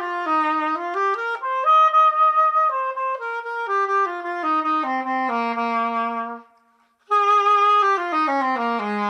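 Solo clarinet playing a short melody in two phrases, note by note, each phrase stepping down to a held low note, with a brief pause between them.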